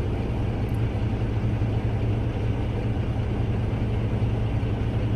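A truck's engine running steadily with road noise, heard inside the cab: a constant low drone under an even rumble.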